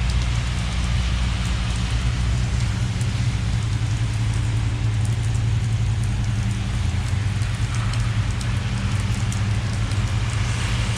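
Steady rain falling, a continuous hiss with scattered fine drop ticks, over a low steady hum.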